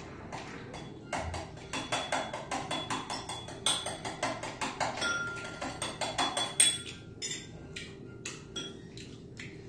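Close-up eating sounds: wet chewing and lip-smacking clicks, several a second, as raw beef sashimi is eaten. The clicks thin out near the end, and faint background music runs underneath.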